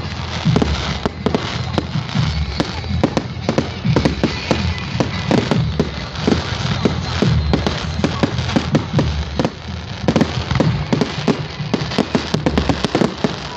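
Fireworks going off: a dense, irregular run of bangs and crackles, several a second, over a steady low rumble.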